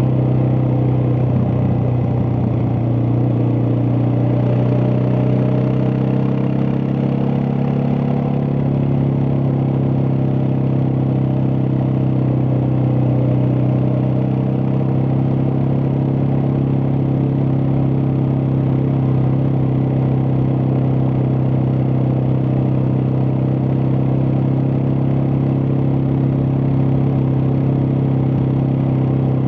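Suzuki DR650's single-cylinder four-stroke engine running under way. Its note shifts a little during the first several seconds, then holds steady.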